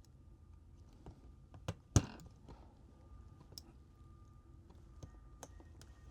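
Small sharp clicks of phone parts and tools being handled as a smartphone's motherboard is refitted into its frame: two clicks close together about two seconds in, the second the loudest, then a few fainter ticks.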